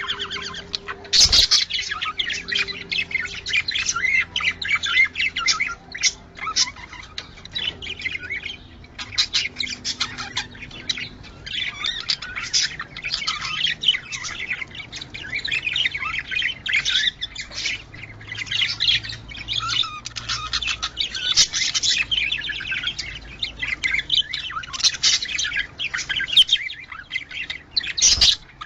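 Budgerigars chattering in a continuous stream of rapid warbling chirps and squawks. There is a sharp click about a second in.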